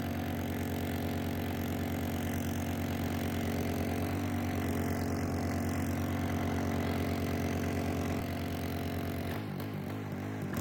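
An engine running steadily at a constant speed, with a brief change in its sound about nine and a half seconds in.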